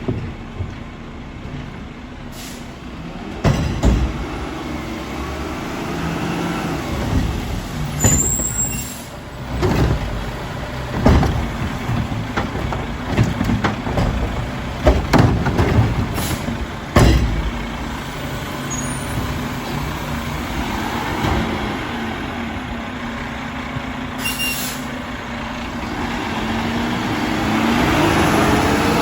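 Mack LR garbage truck with a Curotto Can at work: the engine runs steadily under repeated clanks and bangs of carts and lids, with short air-brake hisses, and the engine revs up near the end.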